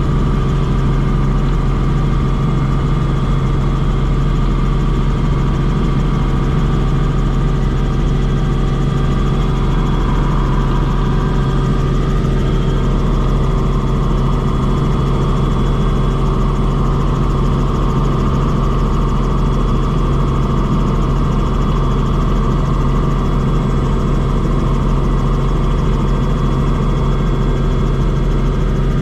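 Helicopter's engine and rotor running in steady flight: a loud, unchanging low drone with several steady tones over it.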